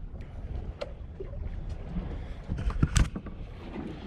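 Low rumble of wind and water around a small fishing boat, with a few sharp knocks on the boat, the loudest about three seconds in.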